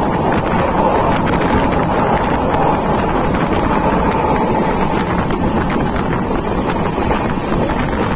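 A train running fast, its wheels rolling on the rails and air rushing past an open door, with wind buffeting the microphone in a steady roar. A steady hum sits in the roar and fades about halfway through.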